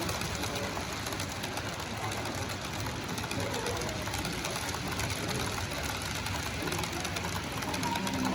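H0-scale model train running on the layout's track: a steady, fast mechanical rattle of small motor and wheels.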